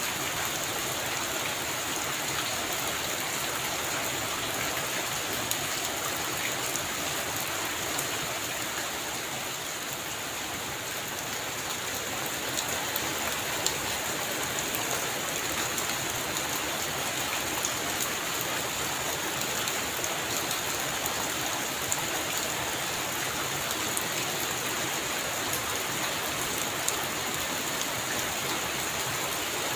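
Heavy rain falling steadily, an even hiss with scattered close drops ticking on top; it eases slightly about a third of the way in.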